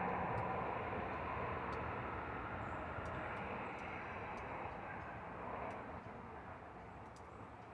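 Broad rumble of a passing vehicle, fading steadily as it moves away.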